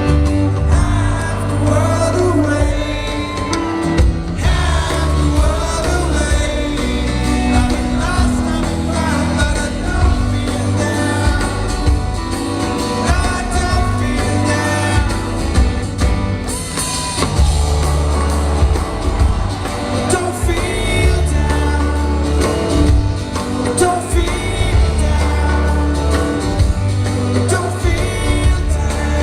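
A band playing a rock song live in concert, with a lead voice singing over it throughout.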